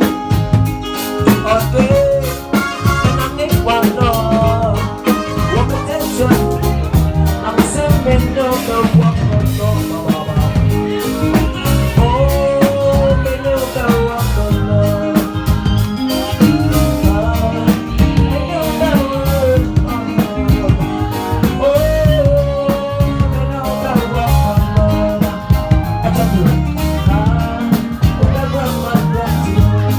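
A live band playing a song: a drum kit keeps a steady beat under bass and a melodic line that slides in pitch.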